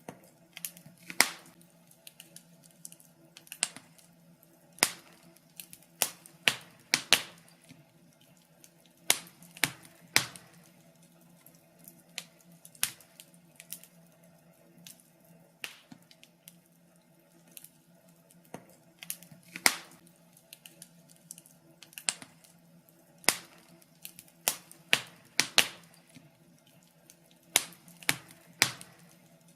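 Wood fire crackling, with sharp irregular pops and snaps, some louder than others, over a faint steady low hum.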